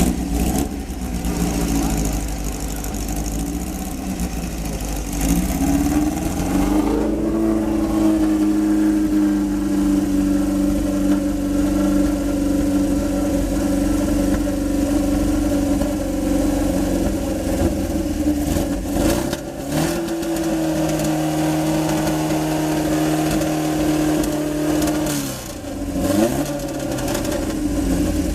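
Fiat Abarth 1000 TCR's four-cylinder racing engine running, blipped up and held at raised revs for about twelve seconds. It dips briefly, is held up again for about five seconds, then drops back to idle near the end.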